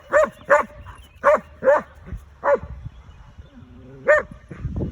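A dog barking six times in a loose series of short barks, spaced from under half a second to about a second and a half apart.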